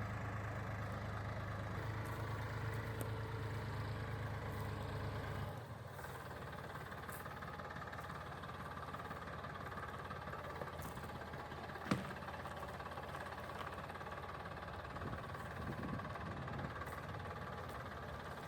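Massey Ferguson tractor engine running steadily at a low, even speed. Its hum falls away noticeably about five seconds in and continues more faintly, with one sharp click about halfway through.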